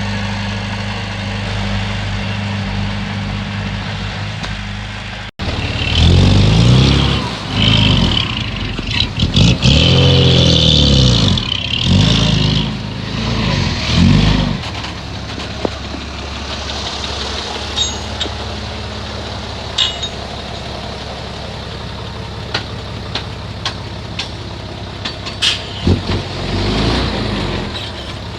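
Heavy diesel engine of earthmoving machinery, running steadily at first, then revving up and down several times under load, then settling back with scattered clanks and knocks.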